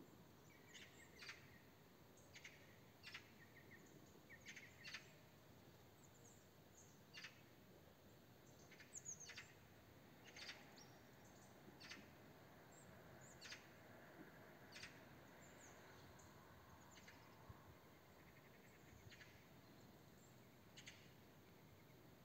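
Scattered short, sharp bird chirps, some twenty of them spread unevenly, over faint steady outdoor background noise.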